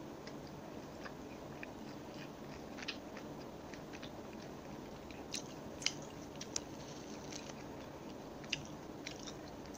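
A person chewing food with the mouth closed: soft, scattered wet mouth clicks, a few louder than the rest, over a steady low hiss.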